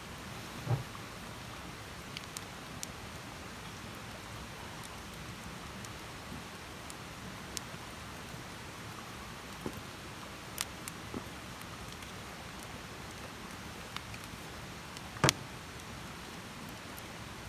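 Wood campfire burning: a steady soft hiss with scattered crackles and pops, the loudest pop near the end and another about a second in.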